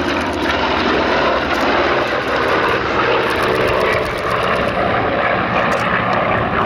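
Vought F4U Corsair fighters flying a display, their Pratt & Whitney R-2800 radial engines running with a steady drone.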